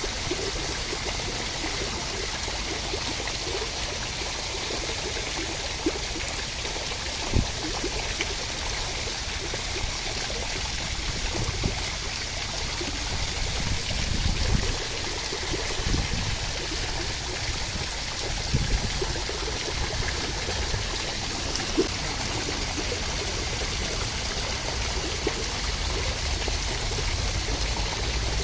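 Steady rushing water noise, the even wash of a rain or stream sleep track, with a few soft low knocks scattered through it.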